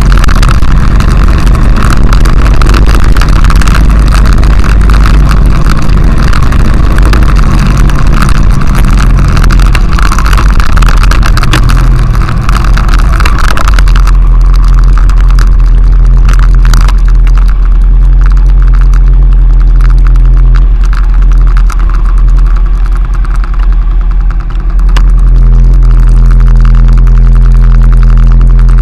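Honda XRV750 Africa Twin's V-twin engine running while the bike is ridden on a dirt track, with heavy wind noise on the bike-mounted camera's microphone. About halfway through the wind noise drops away as the bike slows, leaving the engine's low steady note, which settles to an even idle near the end.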